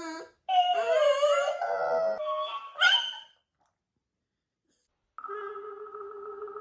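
High-pitched, wavering howl-like cries with sliding pitch for about three seconds, then a pause. About five seconds in, a steady musical tune with held tones begins.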